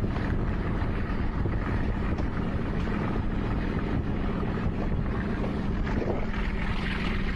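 Passenger train coaches running along the track at speed, with a steady rumble of wheels on rails and wind buffeting the microphone.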